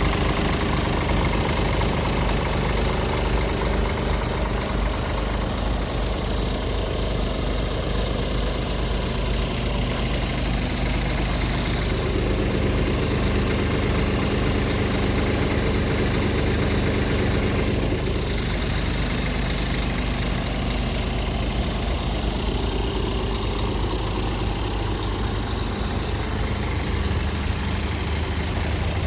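Scania R450 truck's 13-litre inline-six diesel engine idling steadily, its tone shifting slightly for a few seconds midway.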